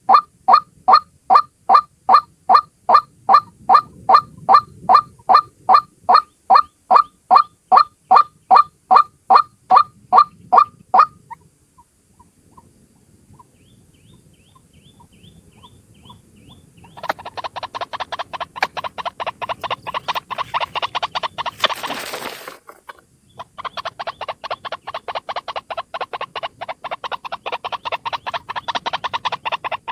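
White-breasted waterhen (ruak-ruak) lure call: a loud pitched call repeated evenly about two or three times a second. After about eleven seconds it pauses, then returns as a faster, rougher run of calls, broken briefly by a burst of noise and a gap after about twenty-two seconds.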